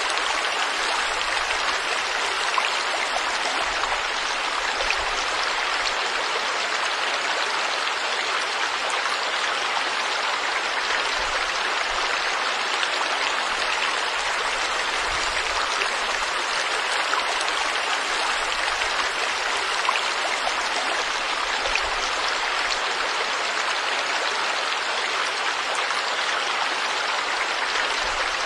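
Forest stream flowing steadily, an even rush of water with fine splashing and no change in level.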